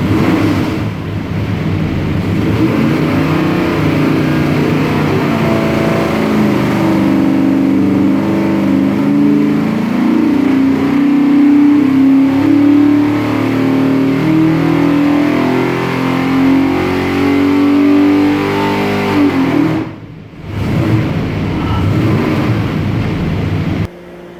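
632-cubic-inch big block Chevrolet V8, carbureted, running on an engine dyno: the revs climb over the first several seconds, hold high with some wavering, then fall back. About 20 seconds in the sound dips briefly, then the engine runs at lower revs until it cuts off just before the end.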